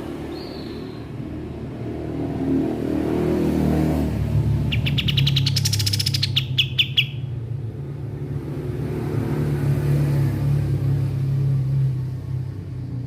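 Kapas tembak songbird calling: a short chirp, then a few seconds later a fast, rattling trill of about two seconds, over a steady low hum.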